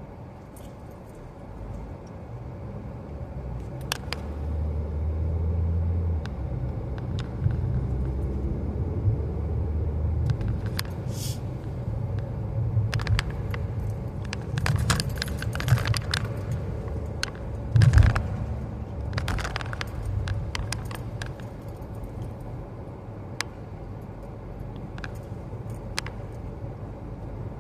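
Car cabin noise: a steady low rumble from the moving car, with scattered jingling and rattling clicks and a single heavy thump about eighteen seconds in.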